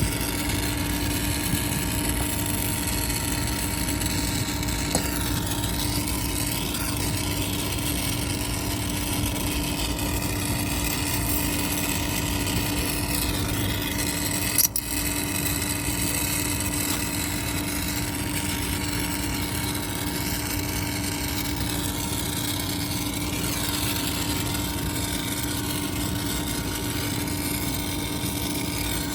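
A motor-driven machine running steadily with a constant hum, with a single sharp click about halfway through.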